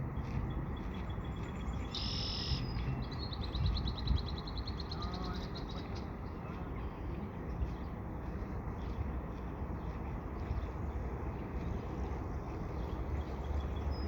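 Small songbird calling: a short high note about two seconds in, then a rapid trill of quick repeated notes lasting about two seconds, with a few faint chirps later. Underneath is a steady low rumble.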